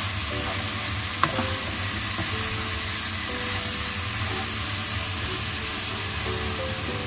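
Pork trotters coated in red fermented beancurd sizzling in hot oil in a nonstick wok while a spatula stirs and turns them, with one sharp click about a second in.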